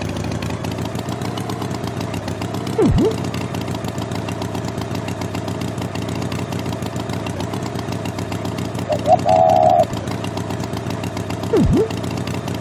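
A small engine running steadily, with a short horn honk about nine seconds in and two brief swoops that dip and rise in pitch, about three seconds in and near the end.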